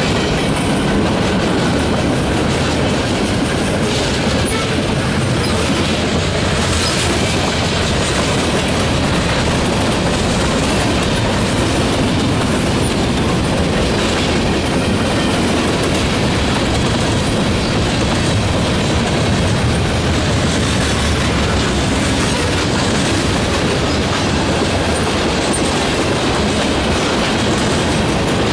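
Norfolk Southern mixed freight train's cars rolling past close by: a loud, steady rumble and clatter of steel wheels on the rails.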